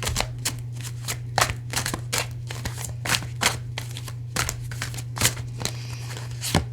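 A deck of tarot cards handled and shuffled by hand: an irregular run of short, sharp card clicks and slaps, two or three a second, over a steady low hum.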